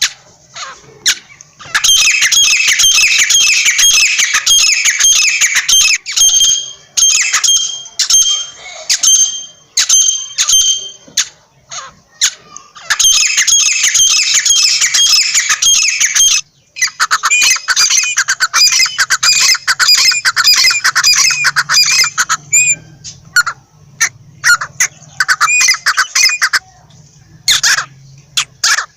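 Francolin (teetar) calling: long bouts of rapid, repeated harsh notes lasting several seconds each, broken by short gaps and scattered single notes.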